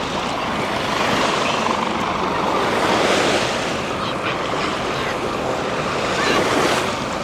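Steady outdoor rushing noise that swells and eases every couple of seconds, with faint voices in it.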